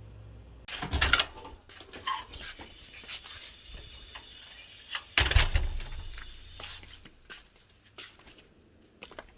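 Household handling clatter: a string of knocks and rattles, the loudest about a second in and again around five seconds in, thinning out towards the end.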